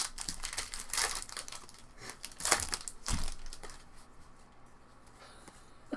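Foil wrapper of a baseball card pack crinkling and tearing as it is opened, in several bursts, with a low thump about three seconds in; the last couple of seconds are quieter.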